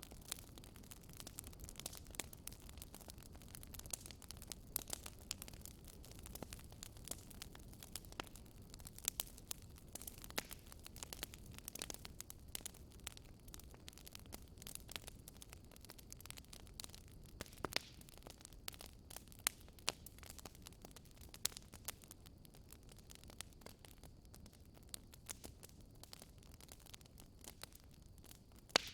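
Wood fire crackling in a fireplace: frequent irregular sharp pops and snaps over a low steady rush of the flames.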